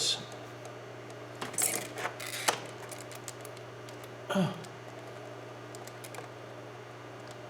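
Light metallic clicks and clinks of handling as a borescope probe is fed into the spark plug hole of an engine that is switched off, over a steady low hum.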